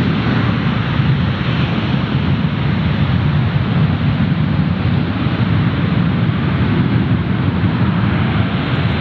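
Airliner jet engines running, a loud, steady rushing noise that holds level throughout.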